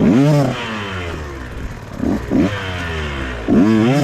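Dirt bike engine being revved at a standstill: a sharp throttle blip at the start that falls back to idle over about a second, a quick double blip around two seconds in, and another strong blip near the end.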